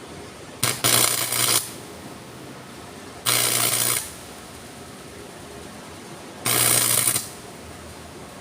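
Freshly repaired Yamato 250-ampere arc welding machine on a test weld: three short bursts of crackling arc, each under a second and about three seconds apart, with a low hum from the machine under each burst. The arc strikes and holds, so the repaired welder is working.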